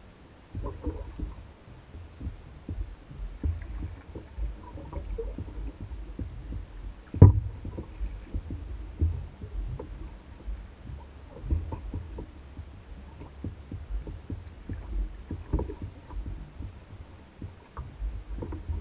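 Small waves lapping and slapping against the hull of an Old Town Guide 119 canoe as it bobs, giving a run of soft, irregular low thumps. One sharper knock on the hull comes about seven seconds in.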